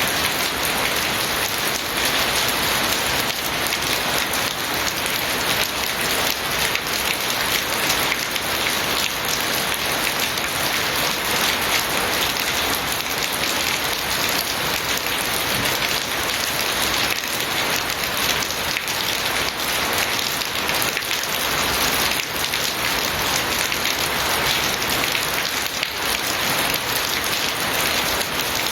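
Steady heavy rain falling, a dense even hiss with many fine drop impacts.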